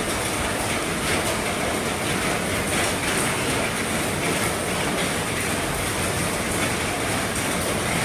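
Heavy rain drumming steadily on the roof of an RV, a dense, even patter with no let-up.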